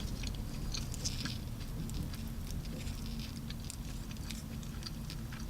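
Scattered small clicks and crinkles of someone handling and eating a wrapped burrito, over a steady low hum.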